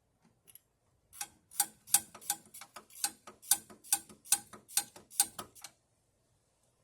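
A rapid run of sharp clicks, about three a second, starting about a second in and stopping after roughly four and a half seconds.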